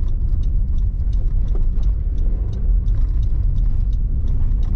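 Car driving on a snowy road, heard from inside the cabin: a steady low rumble of engine and tyre noise, with faint quick ticks above it.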